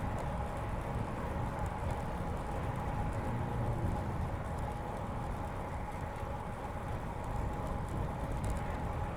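Steady riding noise from a bicycle on a paved bike path: low wind rumble over the chest-mounted microphone and tyre noise, with a thin steady whine and a few faint ticks.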